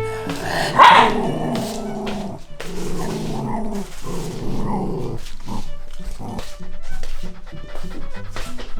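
Shiba Inu whining while guarding its food, with one loud cry about a second in and more whining over the next few seconds. Background music runs underneath and carries on alone near the end.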